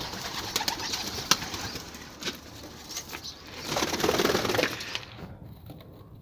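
Domestic pigeons fluttering and cooing, with scattered sharp clicks and a louder rush of wingbeats about four seconds in.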